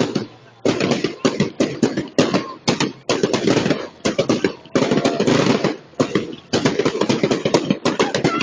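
Fireworks going off in rapid volleys of sharp bangs and crackle, each burst of many quick reports lasting under a second, separated by brief pauses.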